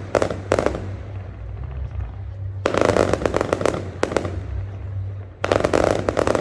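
Fireworks going off in crackling volleys of rapid pops: one right at the start, a longer one from about the third to the fourth second, and another near the end, over a steady low rumble.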